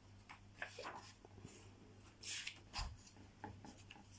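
Quiet small room with a low steady hum and faint scattered rustling and handling noises, a short hiss about two seconds in and a soft knock near the middle.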